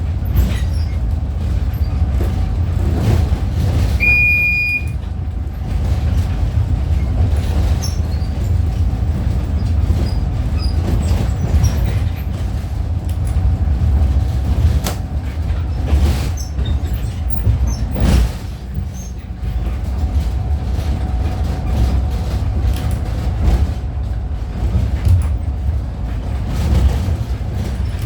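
Train running on the rails: a steady low rumble with irregular knocks of wheels over rail joints, and one brief high squeal about four seconds in.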